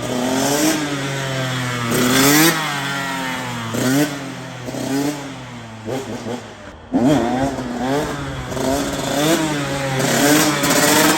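A 125 cc two-stroke dirt bike engine revving in repeated throttle blips, its pitch rising and falling again and again over a steady engine note, as the rider works the throttle for a wheelie. The sound drops out briefly about seven seconds in.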